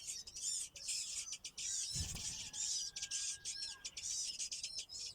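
Nestling birds giving high-pitched begging calls: rapid squeaky chirps repeated in bursts, with a single low thump about two seconds in.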